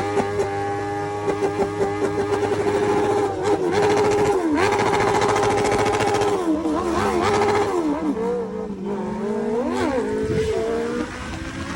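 Honda CBR1000RR inline-four with an Arrow aftermarket exhaust, revving: the pitch holds steady, then swings down and up in repeated rev changes from about three seconds in, with a quick sharp blip near the end.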